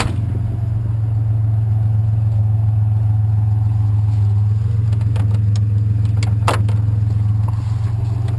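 Truck engine running steadily, a low drone throughout, with several short clicks and rattles a little past the middle.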